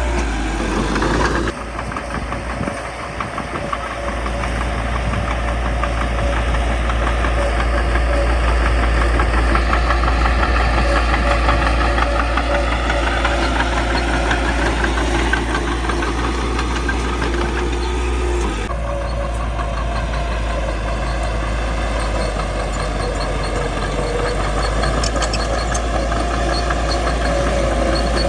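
Caterpillar D3C bulldozer's diesel engine running under load with a fast, dense clatter, its pitch drifting up and down as the machine works. The sound shifts abruptly twice, about a second and a half in and again past the middle.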